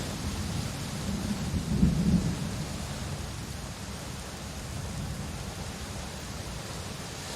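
Steady rainfall hiss with a low thunder rumble that swells about two seconds in, then dies down under the rain.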